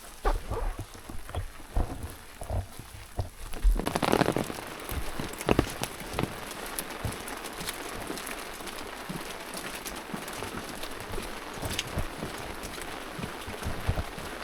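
Steady rain falling, with many scattered drops ticking on a surface. A few low thumps come in the first seconds, and a louder rustling swish about four seconds in.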